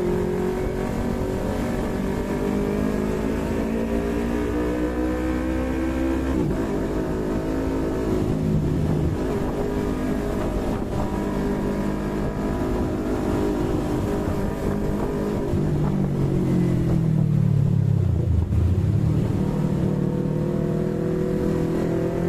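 Yamaha MT-25's parallel-twin engine running under the rider. The revs climb, drop briefly at a gear change about six seconds in, and climb again. Later the revs fall away as the bike slows, dipping lowest a little past eighteen seconds, then rise once more.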